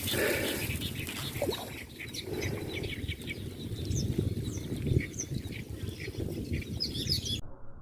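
Short, high bird chirps repeating over a steady low noise; the sound cuts off abruptly near the end.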